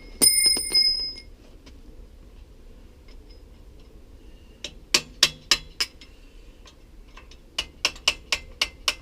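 Metal-on-metal strikes against a bicycle's bottom bracket to loosen it: one hard blow that rings on for about a second, then a quick run of about four blows halfway through and about six more near the end.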